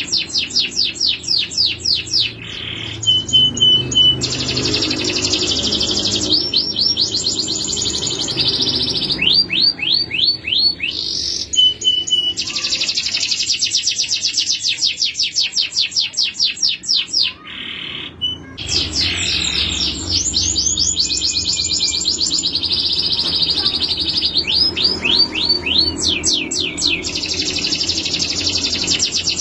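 Male canary singing a long continuous song: fast rolls and trills of rapidly repeated notes, runs of falling swept notes, and a few short steady whistles, broken by a brief pause about two-thirds of the way through.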